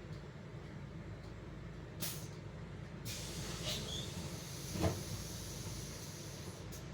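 Solaris Urbino 12 city bus heard from the cab: the engine rumbles low and steady while the bus's compressed-air system hisses, once briefly about two seconds in and then longer from about three seconds, with one loud clunk near five seconds.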